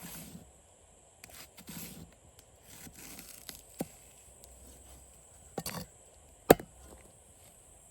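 Chopping on wood: a few sharp knocks, the loudest about six and a half seconds in, with softer scraping and rustling between them.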